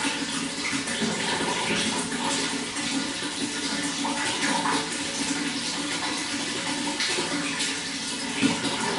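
Water running steadily, a constant rushing flow with small irregular splashes.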